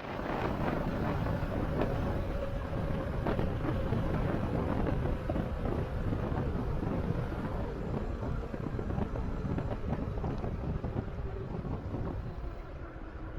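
Wind rumbling on the microphone with road and tyre noise from a moving e-bike, scattered small knocks and a faint steady whine under it, easing off a little near the end.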